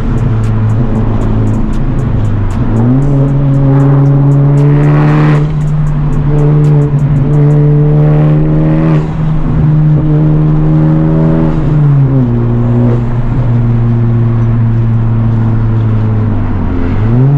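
Honda Civic Type R's turbocharged four-cylinder engine running under load through a catless downpipe and resonator-deleted exhaust. The revs jump up sharply about three seconds in, hold steady, drop back about twelve seconds in, and climb again near the end.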